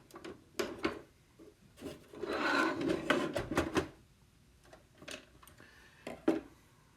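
Toy packaging being handled: a few sharp clicks, then about two seconds of rubbing and scraping, and two more knocks near the end.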